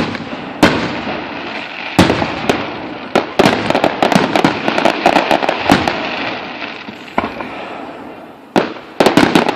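Aerial fireworks exploding: a string of sharp bangs, each with an echoing rumble, and a run of rapid crackling in the middle; a fresh burst of bangs comes near the end.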